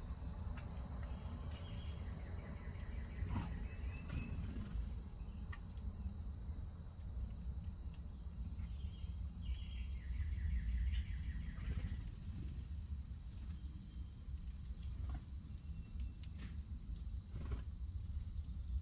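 Wild backyard birds giving short high chirps now and then, with a longer trill about ten seconds in. Underneath is a steady low outdoor rumble and a constant high-pitched drone.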